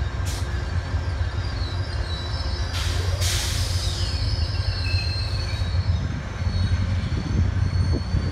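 Metrolink commuter train pulling into a station: a steady low rumble with thin, high wheel and brake squeal as it slows. Two short hisses cut in, a brief one just after the start and a longer one about three seconds in.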